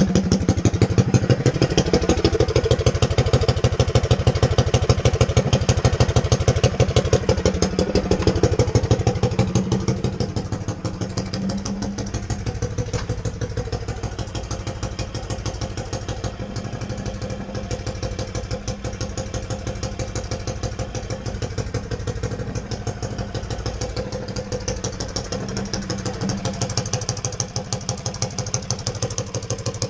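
Coleman CT100U mini bike's small single-cylinder four-stroke engine running as it is ridden. Its pitch rises and falls with the throttle for about the first ten seconds, then it gets quieter and runs more steadily.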